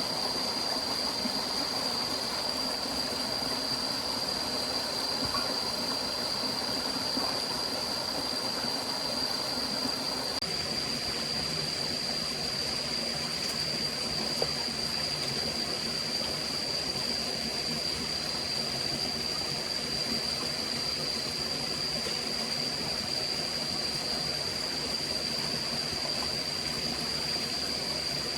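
Stream water running steadily, with a constant thin high tone over it. About ten seconds in, the water's sound changes a little, becoming less full in the middle.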